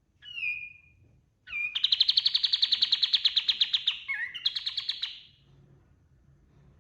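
Kapas tembak singing: a short downward whistle, then a long, fast, loud trill of about ten notes a second, broken briefly by a lower note before the trill picks up again and stops.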